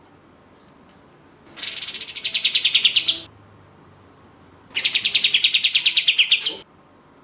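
Kapas tembak (katem) songbird singing two rapid trilled phrases, each lasting under two seconds and falling in pitch as it goes, with a short pause between them.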